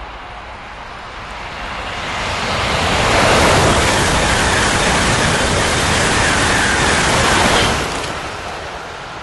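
A train passing by: a rushing whoosh that builds over about two seconds, stays loud for several seconds, then fades away near the end.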